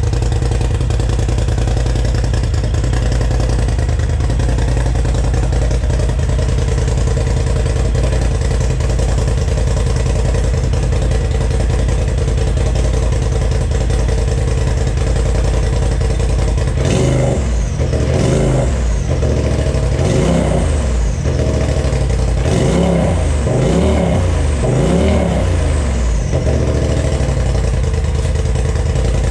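2020 Polaris RZR Pro XP4 Ultimate's turbocharged engine running through a new aftermarket Gibson exhaust. It idles steadily, then about halfway through it is blipped up and down in several quick revs before settling back to idle.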